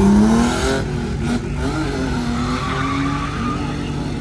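Car engine revving hard with tyre noise; its pitch climbs in the first second, then drops and holds lower.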